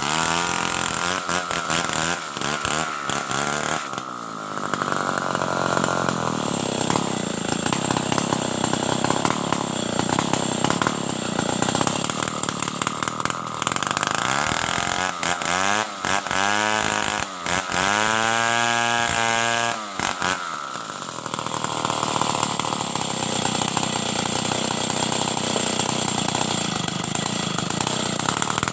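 Stihl 070 two-stroke chainsaw running hard while cutting wood into boards. Its engine speed drops and climbs again several times, most plainly about two-thirds of the way through.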